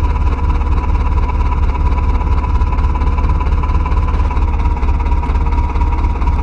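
Heavy diesel engine running at a steady speed, a low throb with a steady high whine over it.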